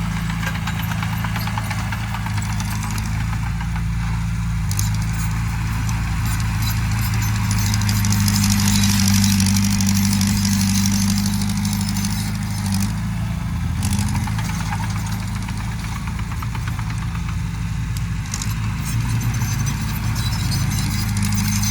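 Diesel engine of heavy earthmoving machinery running steadily, louder for a few seconds near the middle, with a higher clatter and hiss over the engine note.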